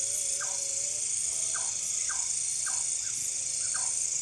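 An animal calling in short repeated notes, about two a second, over a steady high hiss.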